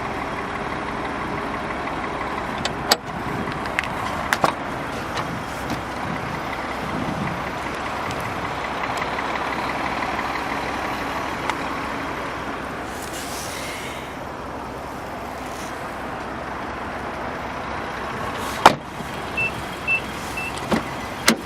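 Steady running hum of a 2013 Nissan Juke Nismo, with scattered clicks and knocks from its parts being handled. There is a loud knock late on, followed by three short high beeps.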